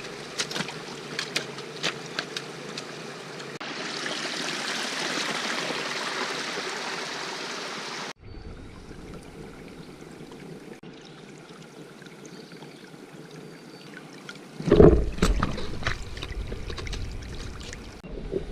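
Running water of a trail-side stream, with scattered sharp clicks and knocks; for a few seconds the water rushes louder and evenly, then stops abruptly. About three-quarters of the way through there is a loud low thump with crackling.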